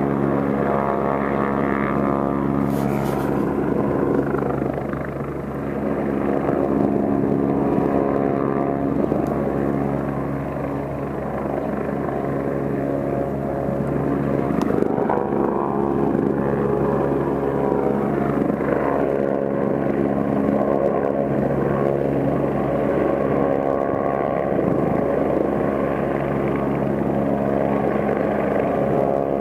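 Police helicopter flying overhead: a steady rotor and engine drone that dips in loudness briefly twice.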